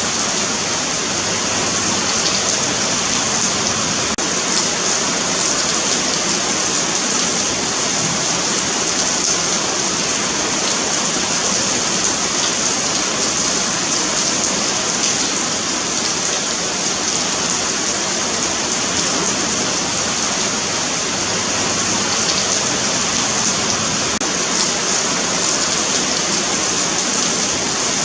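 Steady rain falling on a paved sidewalk, a continuous dense patter of drops with a bright hiss.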